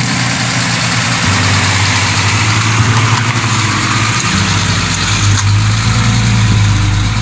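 Mercedes-Benz 280 SE cabriolet's straight-six engine idling steadily.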